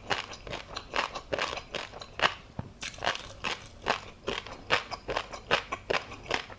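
Close-miked chewing of tobiko (flying fish roe) and crunchy seafood topping: an irregular run of crisp pops and crunches, several a second.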